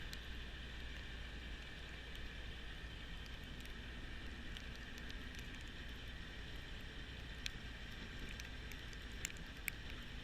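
Kubota B2650 compact diesel tractor running steadily with its front-mounted snowblower, a constant low hum under a steady higher hiss. A few sharp ticks stand out, one near the start and a handful in the last three seconds.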